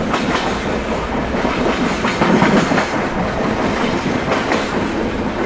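Indian Railways passenger train running at speed, heard from on board: a steady rumble of the coach with the clickety-clack of wheels over rail joints coming through it.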